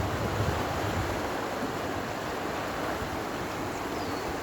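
Steady rush of flowing river water where two rivers meet.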